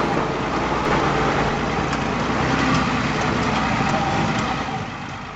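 Truck engine running steadily with road and body noise, fading out near the end.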